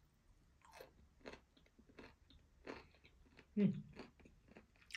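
Close-up crunchy chewing of a pickle (turşu), with crisp bites at a steady pace of roughly one or two a second. One louder, lower mouth sound comes about three and a half seconds in.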